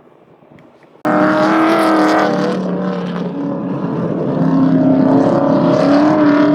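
A loud engine running at high revs, starting abruptly about a second in and holding a steady, slightly wavering pitch.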